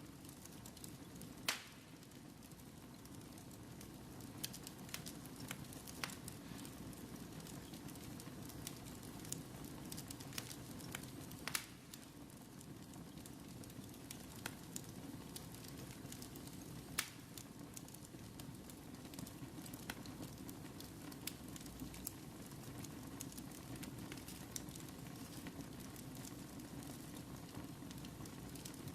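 Fire in a fireplace crackling: a steady low rustle of flames with sharp pops scattered at irregular intervals, a few of them louder than the rest.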